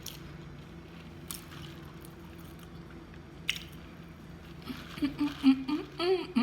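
A few faint mouth clicks over a steady low hum, then from about five seconds in a woman's voice making short wordless sounds.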